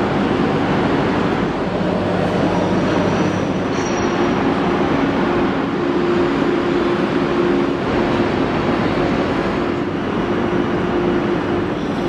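A Renfe passenger train at a station platform, running with a steady hum over a dense wash of noise. A low hum drops out about four seconds in, while a higher steady tone carries on.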